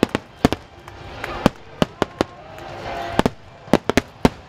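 Fireworks display of a wide starmine: a rapid, irregular run of about a dozen sharp bangs as aerial shells burst overhead.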